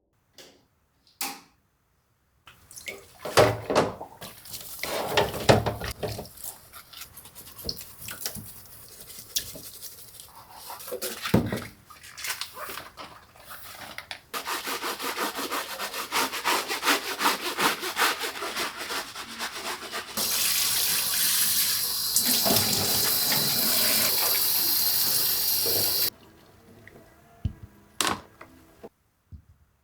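Cleaning sounds at a sink: things handled and knocked, a stretch of rapid scrubbing strokes, then water running steadily from a tap for about six seconds before it is shut off abruptly, with a couple of knocks near the end.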